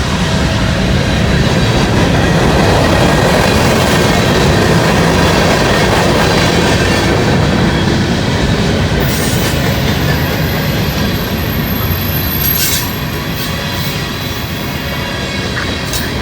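Cars of a long freight train rolling steadily past, with wheel-on-rail noise; it eases a little about thirteen seconds in.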